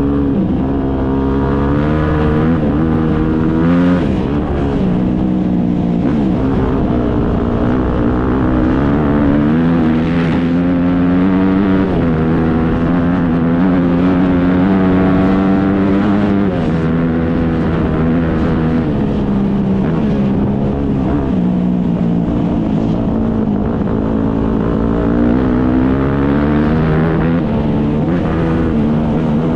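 Motocross bike engines revving, their pitch rising and falling again and again as the throttle opens and closes.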